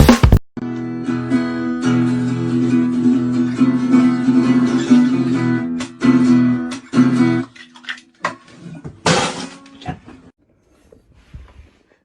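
Acoustic guitar being strummed, its chords ringing for about seven seconds and then stopping. A few scattered small sounds follow, with a short loud noisy burst a little after the nine-second mark.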